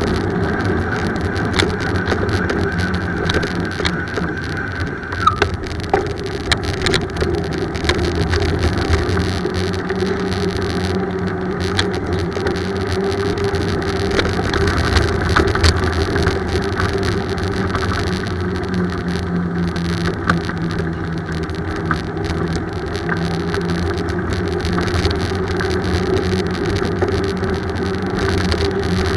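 Steady road and riding noise from a bicycle ride, with a low steady hum and a few sharp ticks scattered through it.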